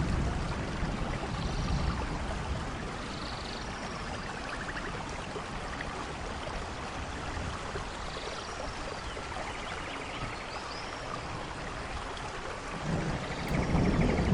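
Steady rain falling, with a low rumble of thunder dying away in the first couple of seconds and another rolling in about thirteen seconds in.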